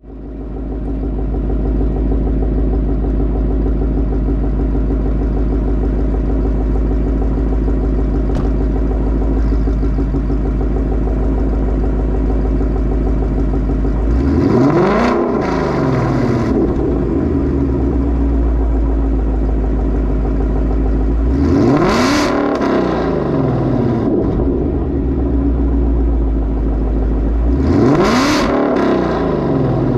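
Mustang 5.0 V8 idling through catted Stainless Power long tube headers, a Corsa double H-pipe and a Corsa Xtreme active-valve exhaust with the valves in track mode, then blipped three times: about halfway through, again some seven seconds later and near the end, each rev climbing and falling straight back to idle.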